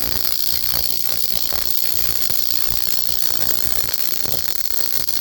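Transformer-fed high-voltage spark gap crackling with rapid, irregular sparks as alpha particles from an americium-241 source set off discharges across the gap, like a Geiger counter.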